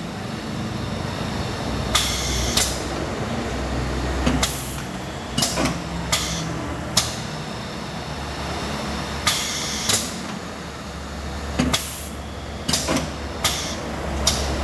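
Automatic wood drilling machine with auto-feed running: a steady motor hum, with repeated sharp clacks, often in pairs, every second or two as it cycles through workpieces.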